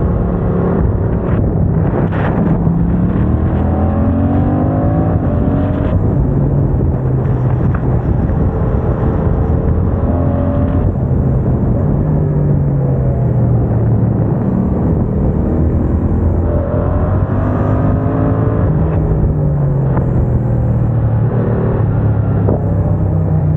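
Yamaha MT-07's 689 cc parallel-twin engine, breathing through a MIVV aftermarket exhaust, pulling under load while riding. Its pitch rises several times and then drops, as the bike accelerates up through the gears and then slows again.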